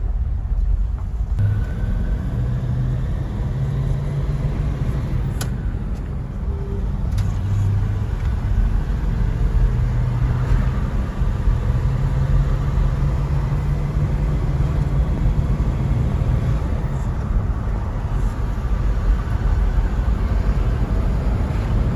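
A 1950 Packard's straight-eight engine running with a steady low rumble, its pitch shifting slightly now and then.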